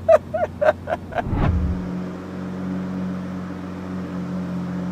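Lamborghini Sián's V12 engine idling steadily, after a short falling dip in its sound about a second and a half in.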